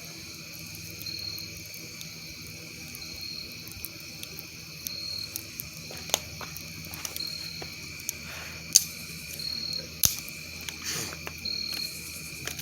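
A steady night chorus of crickets and frogs: one continuous high trill, with a shorter high chirp repeating about every two seconds. A few sharp pops from the campfire cut through, the loudest a little before the end.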